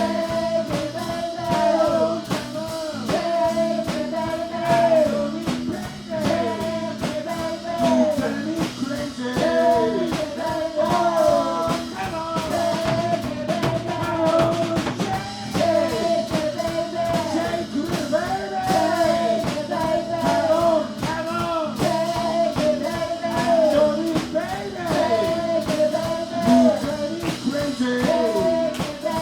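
Live blues band playing an instrumental stretch of a driving blues number, with electric guitar and drum kit and a lead line of bending notes.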